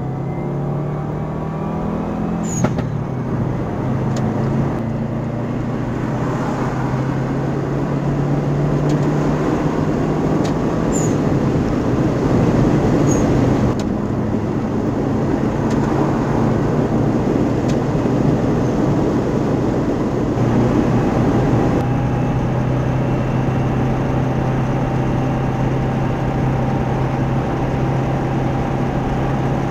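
Subaru Impreza WRX's turbocharged flat-four engine and exhaust heard from inside the cabin while driving at road speed: a steady drone over tyre and road noise, its pitch stepping and drifting as speed changes, with a few brief sharp clicks.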